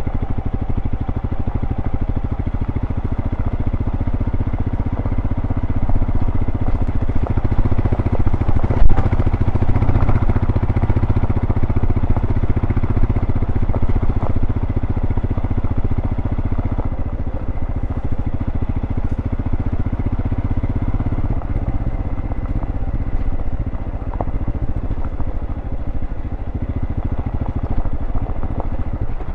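A 2023 Royal Enfield Scram 411's 411 cc single-cylinder engine running through its stock exhaust under way. It gets louder from about six seconds in and eases off in the second half. A single sharp knock comes about nine seconds in.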